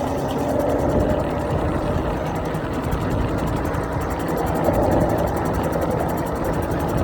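Steady wind and road noise from riding an iENYRID M4 Pro S+ 800 W electric scooter at speed.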